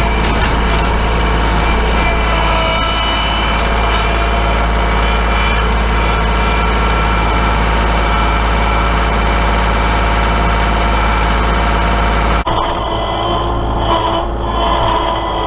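Kubota L3901 compact tractor's three-cylinder diesel engine running steadily under load while moving compacted soil. The sound changes abruptly near the end.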